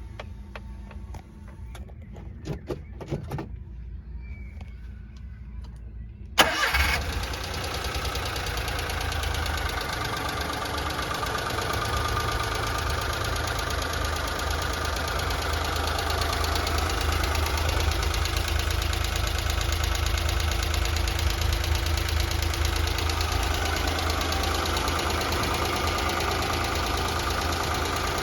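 Light clicks of keys at the ignition, then about six seconds in the Daihatsu Atrai Liberno Turbo's 660 cc three-cylinder turbo engine starts at once with a brief crank and settles into a steady idle.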